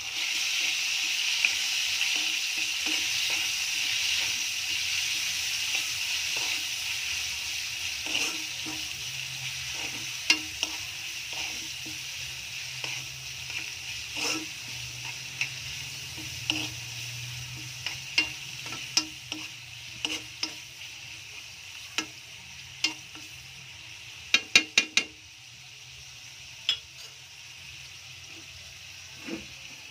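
Diced fatty pork frying in hot oil with garlic in a frying pan: it sizzles loudly as it hits the oil, then the sizzle gradually dies down. A spoon stirs it, tapping and scraping the pan now and then, with a quick run of taps late on.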